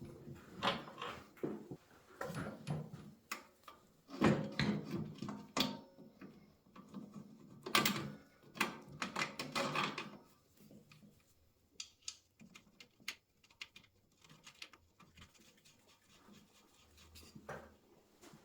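Tools and motorcycle parts being handled at a workbench: a run of irregular knocks, clunks and clinks, busiest in the first ten seconds, then sparser light taps.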